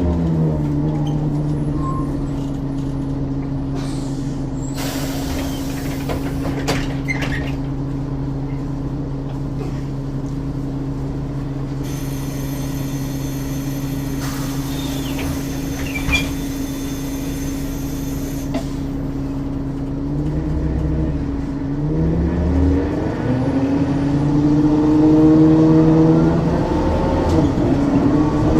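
Ikarus 435 articulated bus's diesel engine idling steadily, with two bursts of compressed-air hissing from its pneumatics. About 20 seconds in, the engine revs up as the bus pulls away, its pitch climbing, dropping at a gear change through the ZF automatic gearbox and climbing again near the end.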